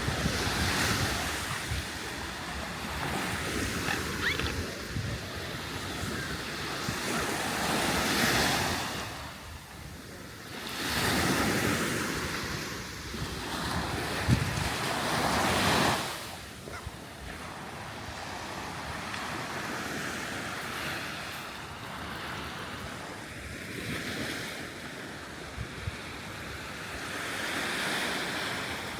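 Sea waves breaking and washing up on a beach, the surf swelling and ebbing every few seconds and loudest in the middle, with wind buffeting the microphone.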